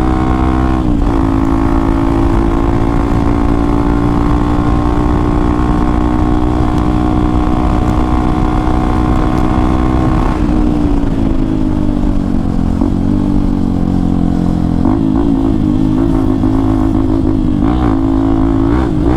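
Hero XPulse 200 4V's single-cylinder engine, through an aftermarket Akrapovic exhaust, running under way. It holds a steady note with a brief dip about a second in, the note drops about halfway through, and the revs rise and fall unevenly near the end.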